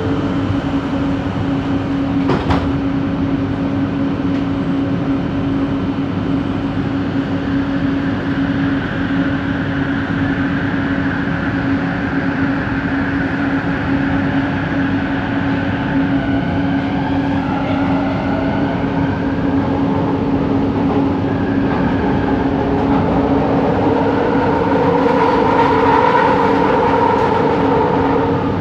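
LRT train Set 70 running between stations, heard inside the coach: a steady rumble with a constant humming tone, and a traction-motor whine that shifts pitch and rises near the end. A single sharp click about two and a half seconds in.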